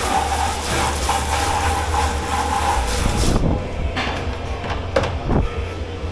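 Water spraying with a steady hiss, cut off abruptly about three and a half seconds in, then a few clanks of dishes over a low steady hum.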